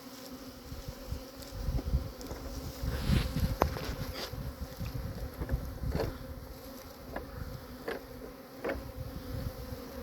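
A honeybee swarm buzzing close up, a steady low hum, with a few sharp clicks and low rumbles scattered through it, loudest a few seconds in.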